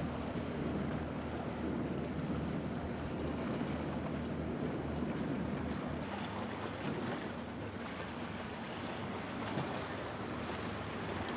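A boat engine running steadily, its low hum fading about halfway through, over surf and wind noise on the microphone.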